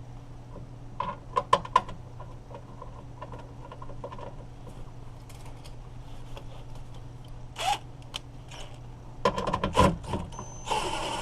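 Door lock actuator parts and a screw being handled and fitted inside a car door: a few sharp clicks about a second in, then a dense run of clicks and rattles near the end, over a steady low hum.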